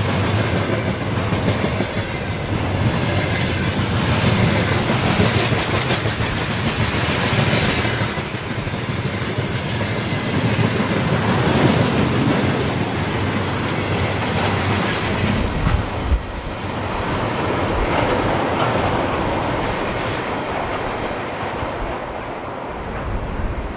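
A train passing on the rails, its wheels clattering over the rail joints, the sound thinning and fading near the end as it moves away.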